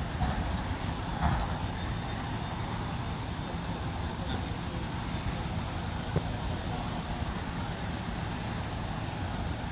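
Steady road noise of a moving car: a low rumble with an even hiss, with a brief click about six seconds in.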